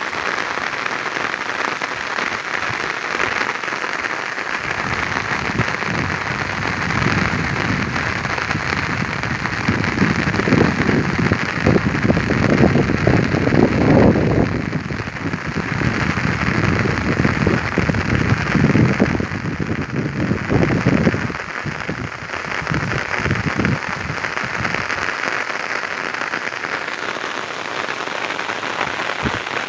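Heavy rain falling steadily, a dense even hiss. A low, uneven rumble swells up under it for a stretch in the middle and then fades out.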